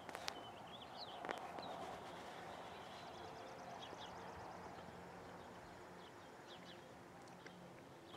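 Faint outdoor ambience with distant birds chirping briefly now and then, and a few soft clicks in the first second or so.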